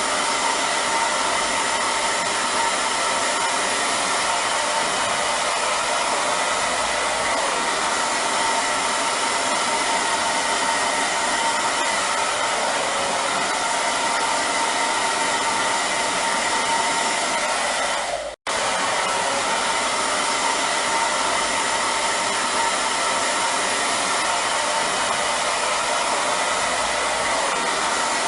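Hair dryer running steadily: a constant rush of blown air with a steady motor whine. It cuts out for a split second about eighteen seconds in, then carries on unchanged.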